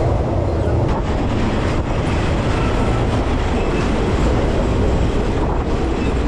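Local passenger train carriage running along the track: a steady rumble of wheels on rails, with a couple of faint clicks about one and two seconds in.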